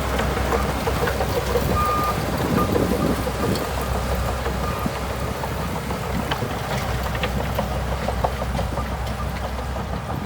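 Shantui DH17C2 bulldozer's diesel engine running steadily, with scattered light clicks over the low engine hum.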